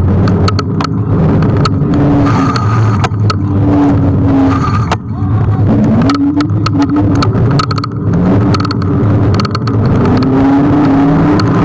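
Riding a Kugoo G1 electric scooter: a loud, steady rumble of the wheels and motor, with frequent rattling clicks as it goes over bumps. Engine tones of passing traffic rise and fall underneath.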